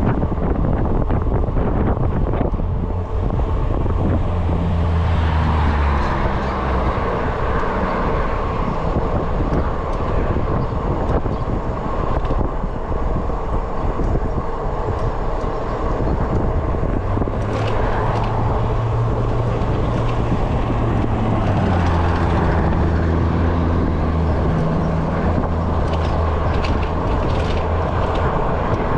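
Wind rushing over the microphone and road noise from an e-bike riding at speed on city streets, with the low hum of passing motor traffic that swells and fades twice.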